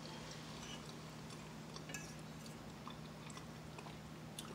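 Faint close-up chewing of a mouthful of food, with a few soft clicks scattered through, over a steady low hum.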